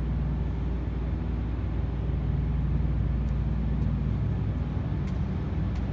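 Steady low mechanical drone with an even hum, like machinery or an idling engine running, with a few faint light ticks in the second half.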